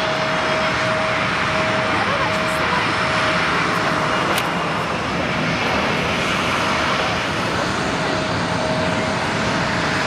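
Steady jet noise from a Bombardier Challenger 605 business jet's two General Electric CF34 turbofans at takeoff power, with a faint steady whine running through it.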